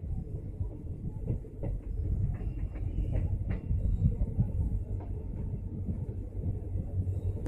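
Passenger train coach running along the track at speed: a steady low rumble of wheels on the rails, with irregular clicks and clatter from the rail joints.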